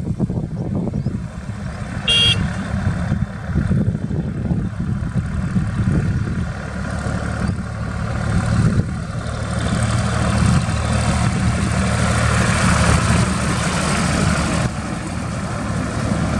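Highway traffic with engines running steadily underneath. There is one short horn toot about two seconds in, and from about ten seconds a vehicle passes close, its tyre and engine noise swelling and then dropping off near fifteen seconds.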